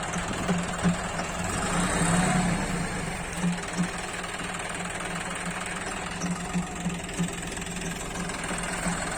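Tractor diesel engine running steadily with a pulsing beat, swelling briefly in level about two seconds in.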